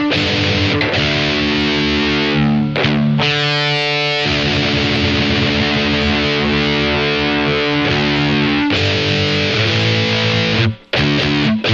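Distorted electric guitar from an Epiphone SG Special with P90 pickups through a Boss ME-80 multi-effects, playing chords that ring out. A short break comes near the end, followed by choppier, shorter chords.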